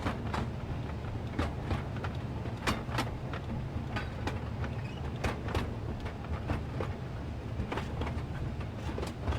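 BNSF train rolling past: a steady low rumble with many sharp, irregular clanks and clicks from the wheels and cars.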